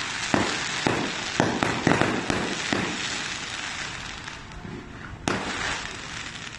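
Aerial fireworks going off: a quick run of bangs over the first three seconds, then a lull and one sharp bang near the end.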